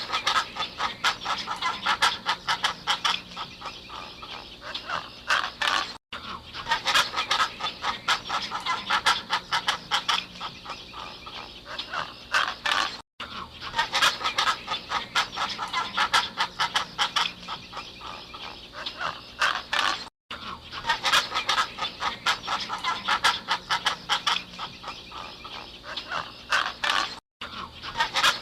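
A flock of waterbirds calling in a dense, chattering clamour. The same stretch of about seven seconds repeats over and over, with a brief gap of silence between repeats.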